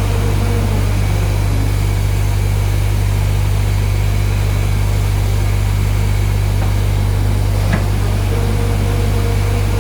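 Automatic pull-out tissue folding machine running steadily with a constant low hum, one light click about three-quarters of the way through.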